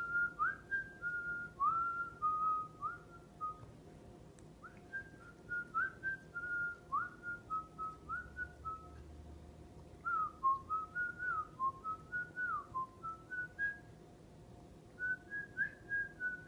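Whistling: a string of clear, pure whistled notes, many starting with a quick upward slide, in phrases of several notes with short pauses between them, like a tune.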